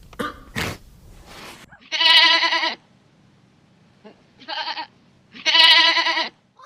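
Three quavering bleats from a sheep or goat, the middle one shorter and quieter than the other two.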